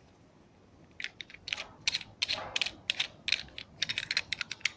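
Quick, irregular metallic clicks and clinks of small forged lamp parts being handled and fitted together, starting about a second in.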